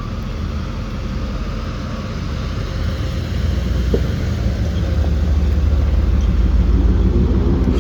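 1986 Chevrolet Camaro IROC-Z's 5.7-litre naturally aspirated V8 giving a little low rumble as the car comes up, growing gradually louder.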